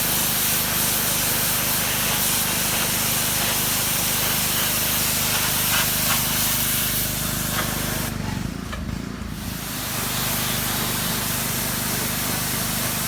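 Pressure washer spraying cedar siding: a steady hiss of the water jet over the even hum of the machine's motor. About eight seconds in, the spray stops for roughly two seconds while the motor keeps running, then it starts again.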